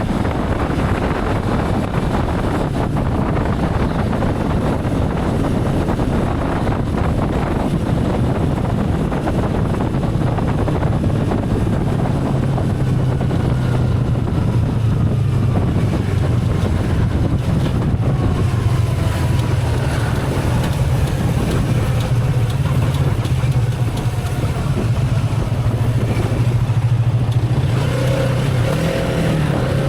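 Motorcycle running at a steady cruising speed, its low engine note under wind noise on the microphone. The engine note grows steadier and stronger about twelve seconds in.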